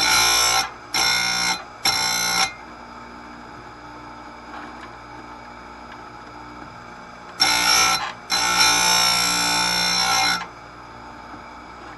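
Bench chain grinder's CBN disc grinding saw-chain teeth in short passes, a steady high whine each time it touches a tooth: three quick passes at the start, then a brief one and a longer two-second pass later. Between passes the grinder motor hums on its own.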